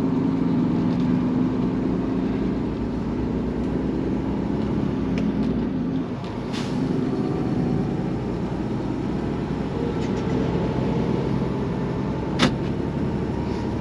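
Semi truck's diesel engine running steadily as heard inside the cab while the rig pulls out, its steady hum easing about six seconds in. A single sharp click near the end.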